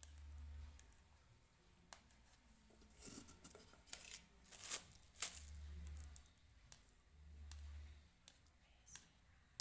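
Faint scraping and sharp light clicks from a spoon and containers being handled while homemade ice cream is moved into a dish. The scraping is busiest a few seconds in, and a low hum comes and goes.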